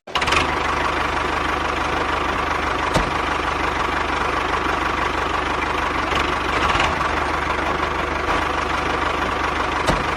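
Tractor engine idling steadily with an even low chugging, broken by two short sharp clicks, about three seconds in and near the end.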